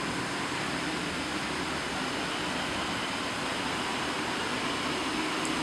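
Steady rush of air-conditioning air blowing through the cabin of a parked Boeing 737, with the fans running to keep the cabin cool.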